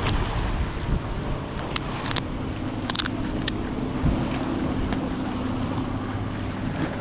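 Wind buffeting the microphone over lapping water, with a few sharp clicks in the first half and a faint steady low hum starting about halfway through.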